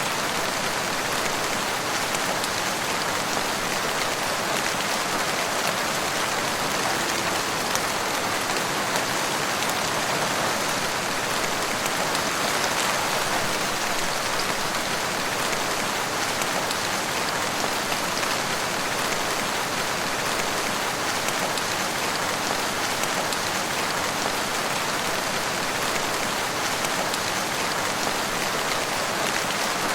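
Steady rain falling in a forest, a constant patter of drops on leaves and ground.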